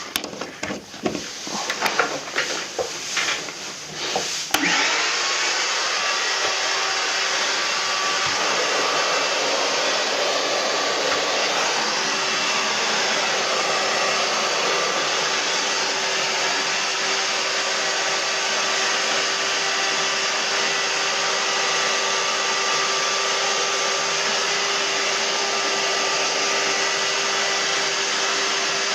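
Clicks and knocks of handling, then, about four and a half seconds in, an electric motor-driven air-moving machine, like a vacuum or blower, switches on and runs steadily with a loud rushing sound and a faint steady whine.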